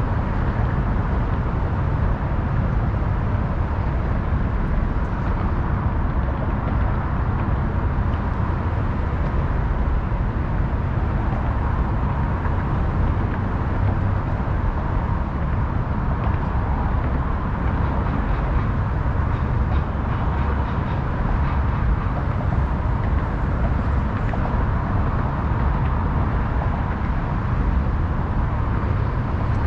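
Steady city ambience by the river: a continuous low rumble of passing traffic, with no distinct events and a faint steady tone.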